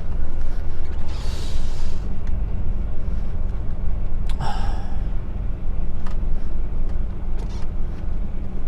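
HGV truck's diesel engine running at low speed, a steady low drone inside the cab, with a brief hiss about a second in and a short sharp sound around four and a half seconds in.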